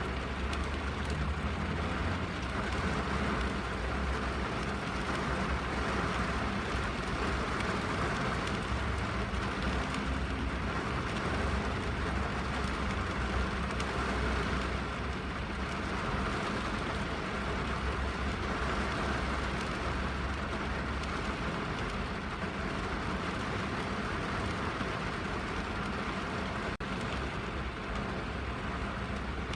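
Steady rain drumming on a car's roof and windows, heard from inside the car, over a constant low rumble, with a single faint click near the end.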